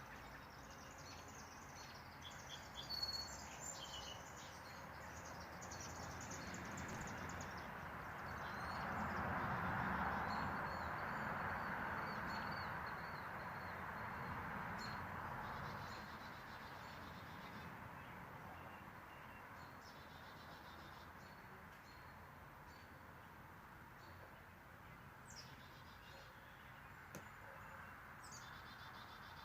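Small birds chirping and trilling in short bursts, busiest in the first few seconds and again near the end, with one thin held note in the middle. Under the calls is a steady outdoor noise that swells for several seconds around the middle.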